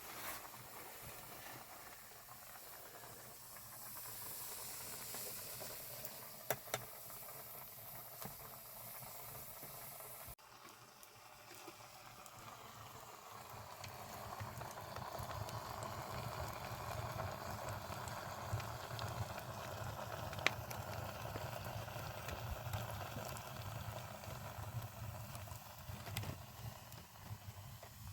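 Steady hissing, rushing noise with a few sharp clicks; about ten seconds in it changes abruptly to a steadier, lower rushing sound.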